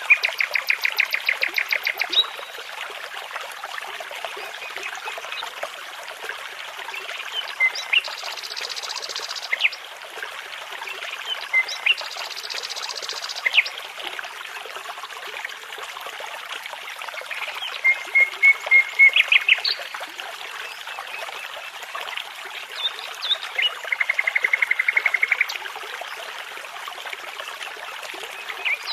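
Songbirds singing over the steady rush of a brook: separate short phrases of rapid trills and repeated notes with pauses between, several of them high and buzzy.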